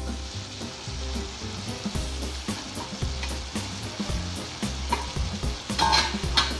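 Chicken and shredded carrots sizzling in a pot, a steady frying hiss. Near the end there is a brief louder clatter.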